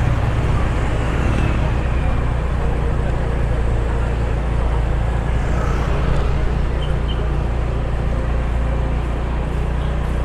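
Steady low engine and road noise of a car being driven.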